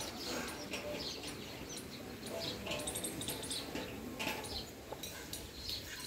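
Small birds chirping, with short high calls scattered irregularly.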